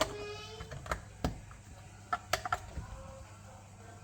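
About six short, sharp clicks and taps of small hard objects being handled, most of them between one and three seconds in; a faint voice trails off at the very start.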